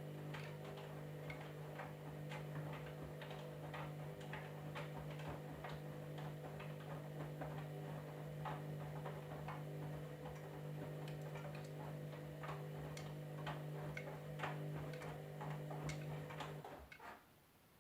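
Candy washing machine running with a steady low hum and many irregular light ticks and clicks over it; the hum and ticking stop abruptly near the end.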